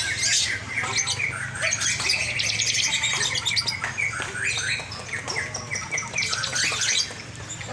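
Lovebirds chirping and squawking in quick, overlapping calls, with a rapid trill held for about a second about two seconds in, over a steady low hum.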